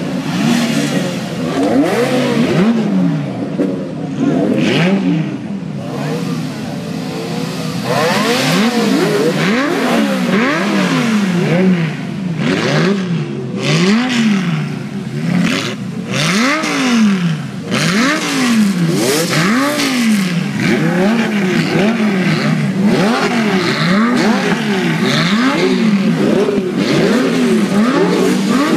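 Several Italian car engines being revved hard while parked, over and over, each rev rising and falling back about once a second and often overlapping.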